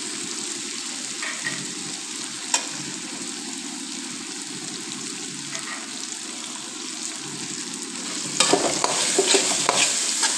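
Chopped chicken, tomato and green capsicum sizzling steadily in a pan, with one sharp click about two and a half seconds in. From about eight and a half seconds a metal slotted spatula starts stirring and scraping through it, louder and irregular.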